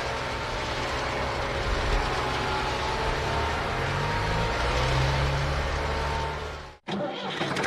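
An engine running steadily, its pitch rising a little in the middle, then cutting off suddenly near the end.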